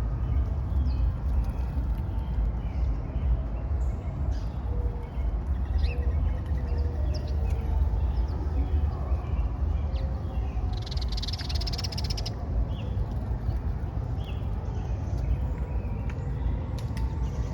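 Outdoor city-park ambience: a steady low rumble with scattered short bird chirps, and a rapid high trill lasting about a second and a half about eleven seconds in.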